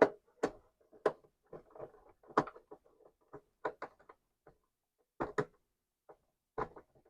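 Irregular clicks and taps of handling as screws are put in to close a Commodore 64's plastic case, about a dozen short knocks with pauses between.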